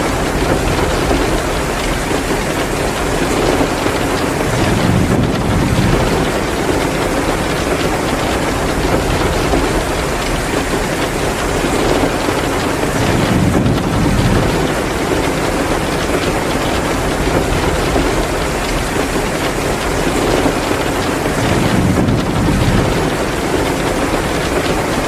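Steady heavy rain pouring down, mixed with a fireplace crackling. The rain swells three times, about every eight seconds.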